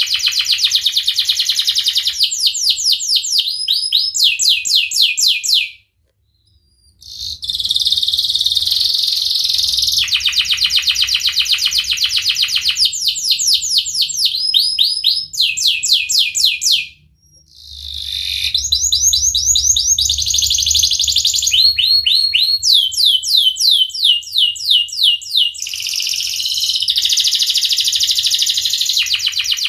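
Domestic canary singing a long song of rapid trills and fast repeated chirps, high-pitched and loud, broken by two short pauses about six and seventeen seconds in.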